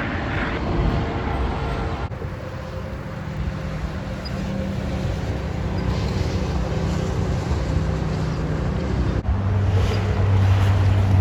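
Engines running steadily as a low hum. The sound changes abruptly about two seconds in, and a louder low drone sets in near the end.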